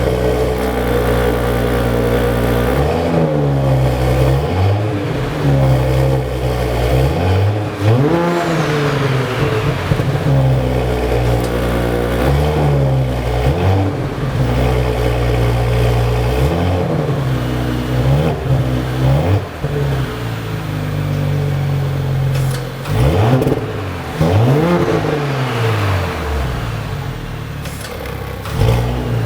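Audi S5 Cabriolet's 3.0 TFSI turbocharged V6 idling, blipped in a series of short revs that rise and fall back to idle.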